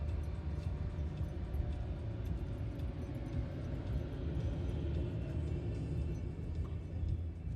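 Steady low rumble of a car's engine and running noise, heard from inside the cabin.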